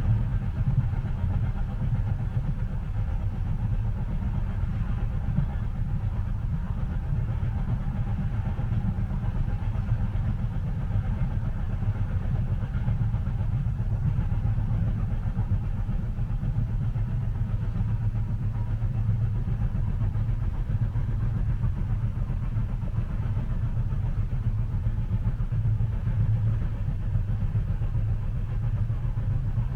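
Train running, heard from inside a passenger carriage: a steady low rumble with a fainter even hiss above it and no sharp knocks.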